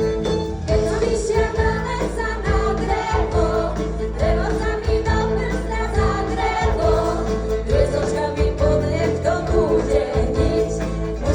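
A folk-rock band playing live, with several voices singing together over a steady beat.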